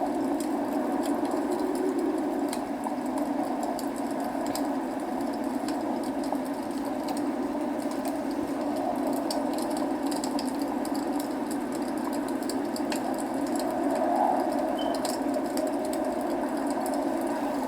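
Steady rain with a fireplace's burning logs crackling, short sharp pops scattered irregularly over the even rush of the rain.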